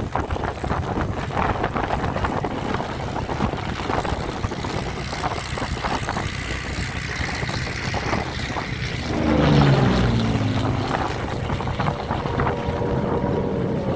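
Piston aircraft engine passing, its pitch falling as it goes by about nine seconds in and briefly the loudest sound, over a steady rush of wind-like noise.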